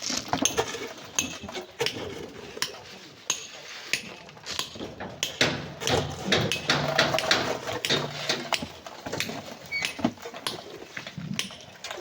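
Hand digging tools striking sand and rock: an irregular run of sharp metallic clinks and knocks, many in quick succession.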